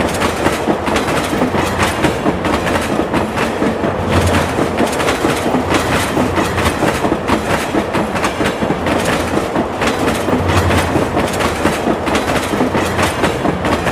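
Howrah–Trichy Superfast Express (12663) running along the track, its wheels clattering steadily over the rails with a continuous rumble.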